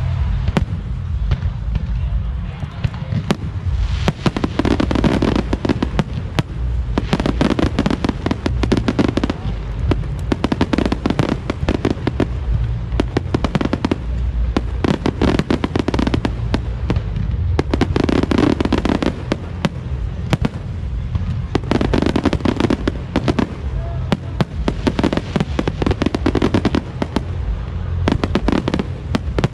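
Fireworks display going off continuously: a rapid stream of bangs and crackling reports, many per second and coming in waves every couple of seconds, over a steady low rumble.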